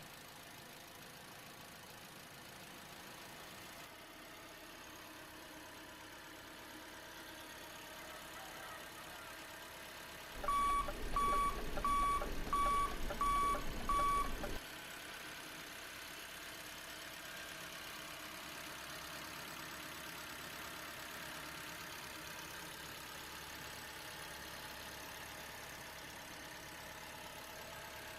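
A run of six short electronic beeps at one high pitch, a little under two a second, over a low rumble, starting about ten seconds in. The rest is a faint steady hum.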